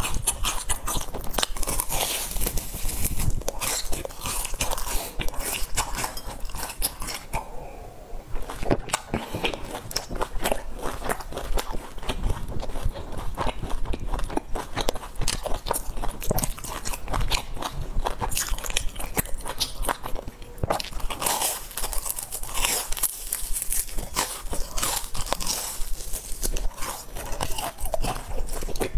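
Close-miked crunchy chewing of a fried sesame ball's crisp shell, with dense crackling crunches throughout. There is a short lull about eight seconds in.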